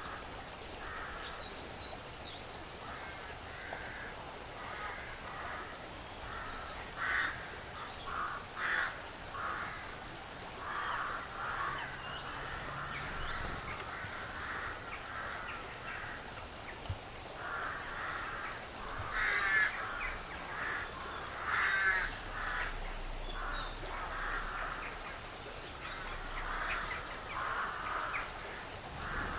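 Woodland birds and squirrels: harsh calls repeated in short bursts throughout, loudest about two-thirds of the way through, with thin high bird chirps above.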